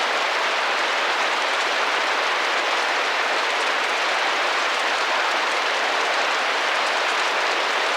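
Rain drumming gently against a window pane, a steady, even patter with no let-up.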